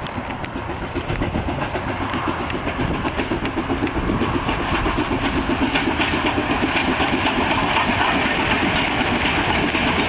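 Steam train running past, its rapid exhaust beats growing louder over the first few seconds and then holding steady, with sharp clicks of wheels over rail joints.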